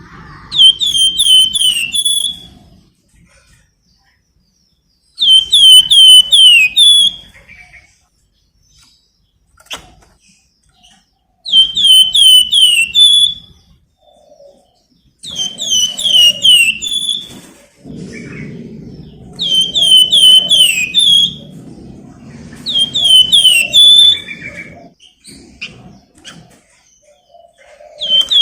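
Flamboyan bird singing in repeated loud phrases, each a quick run of five or six downward-sliding chirps ending in a longer note, coming every few seconds.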